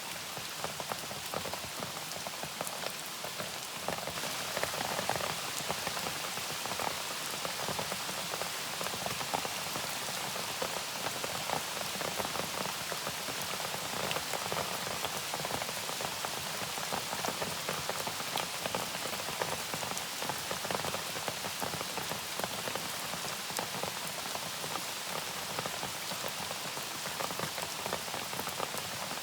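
Steady rain falling, with many separate drop hits on a surface. It gets slightly louder about four seconds in.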